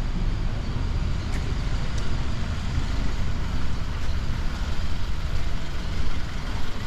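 Street traffic: a steady low rumble of vehicle engines and road noise, with a couple of faint clicks.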